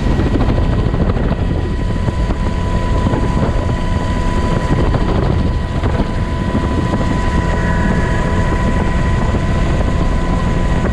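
Helicopter in flight heard from inside the cabin: a loud, steady rush of rotor and engine noise with a constant high whine.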